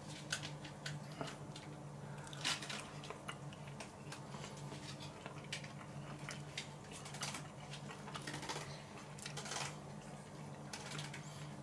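A person chewing a mouthful of grilled sausage, with soft wet clicks and smacks scattered irregularly through, over a faint steady low hum.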